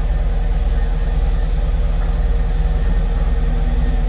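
Cat 259 skid steer's diesel engine running steadily.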